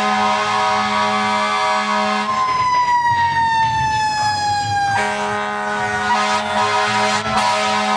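Fire truck sirens sounding: one siren tone swells slightly, then slowly slides down in pitch, and a fresh siren tone cuts in about five seconds in, over a steady low drone.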